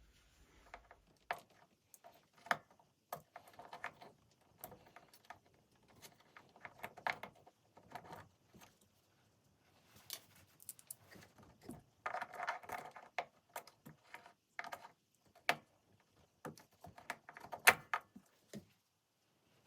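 Small flathead screwdriver working the locking clips of plastic zip ties to release them: scattered small clicks, scrapes and rattles of metal on plastic, with a busier patch about twelve seconds in and another near the end.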